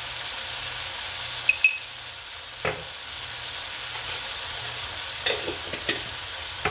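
Crumbled tofu and vegetables sizzling steadily in oil in a wok over a gas flame. Two light clinks come about a second and a half in, a knock follows shortly after, and a few small taps come near the end.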